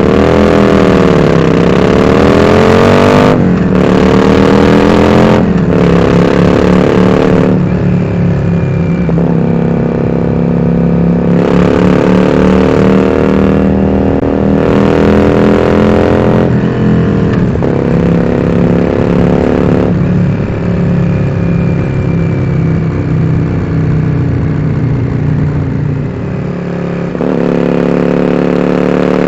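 Yamaha Drag Star 400 Classic's V-twin engine through dual open-end Supertrap mufflers, pulling up through the gears: the pitch climbs and then drops sharply at each shift, several times in the first few seconds. It then runs at a fairly steady cruise with small rises and falls, easing off briefly near the end before picking up again.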